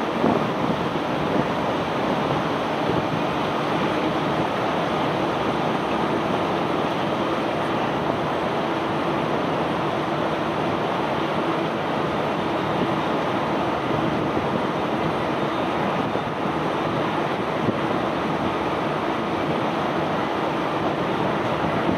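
Self-unloading barge's unloading machinery running steadily as it discharges cobblestones: a loud, even, dense rushing noise with a faint steady hum underneath.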